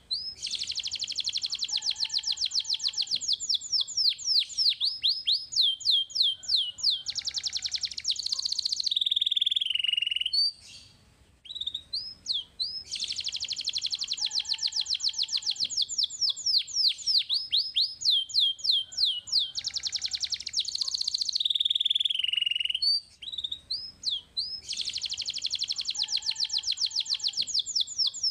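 Domestic canary singing a long song of fast trills, rapid runs of high chirping notes that sweep up and down. The same song phrase comes round again about every eleven seconds, each time after a short pause.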